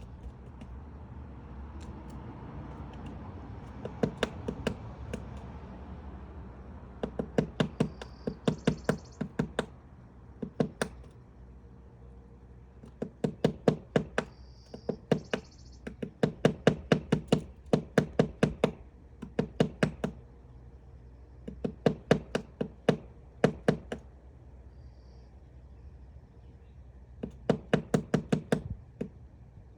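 Woodpecker chiselling out a nest cavity in wood: bouts of rapid pecking strikes, each bout a second or a few seconds long, with pauses between.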